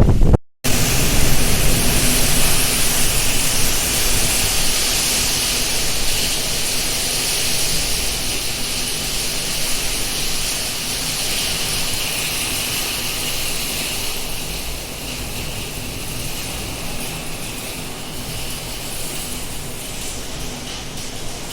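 Heavy rain pouring down in a steady hiss that slowly eases. Before that, a brief rumble of wind on the microphone cuts off abruptly about half a second in.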